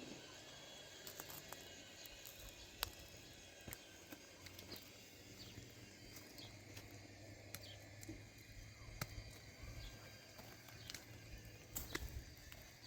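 Faint, quiet ambience with scattered small clicks and knocks, and a few faint short high chirps.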